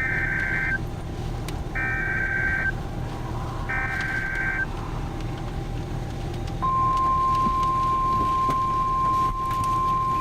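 NOAA Weather Radio emergency alert: three short buzzing bursts of SAME data header, about a second each, then from about six and a half seconds in the steady 1050 Hz warning alert tone, which signals that a new warning message follows. Under it is a steady low rumble.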